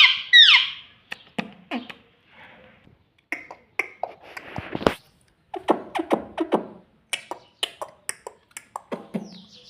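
Talking parrot chattering: two loud arched squawks at the very start, then a busy run of sharp clicks, pops and short chirping and mumbled vocal sounds.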